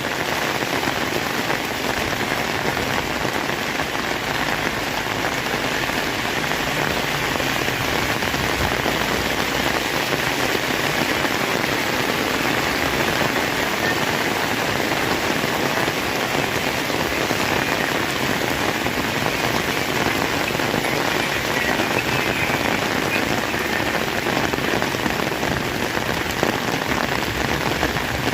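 Heavy rain pouring down steadily, a dense even hiss of drops with no let-up.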